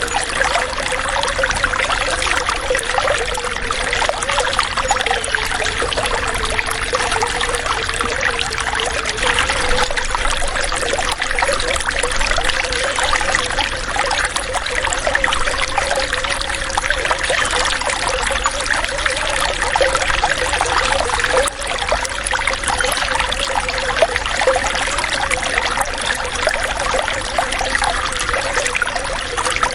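Running water trickling and splashing steadily, a continuous bubbling flow like a small stream or pouring water.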